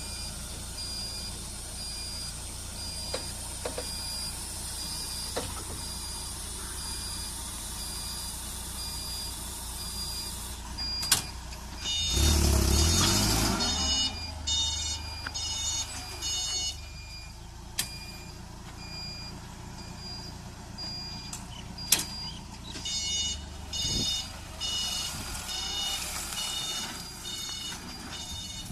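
FGL dual-fuel forklift running, with its warning beeper sounding in regular high beeps. About twelve seconds in, the engine surges loudly for a couple of seconds. Further bursts of faster beeping follow.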